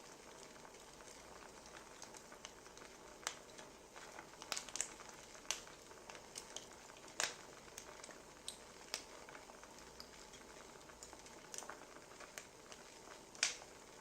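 Wood fire crackling: irregular sharp pops and snaps over a soft steady hiss, the loudest snap near the end.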